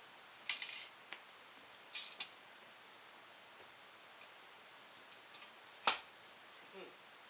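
A handful of sharp, irregular clinks and clicks, some with a brief metallic ring. The loudest comes about six seconds in.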